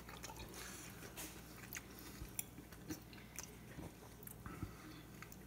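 Faint chewing and small wet mouth clicks from someone eating a hot bite of roasted onion, over a low steady hum.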